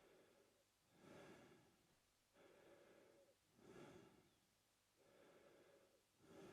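A man breathing softly and steadily through his mouth, one breath in and out about every two and a half seconds.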